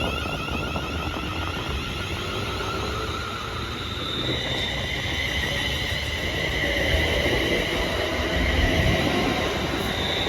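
ScotRail Class 380 electric multiple unit running through the station with steady rail noise. From about four seconds in, a steady high-pitched whine rises over it and the sound grows slightly louder.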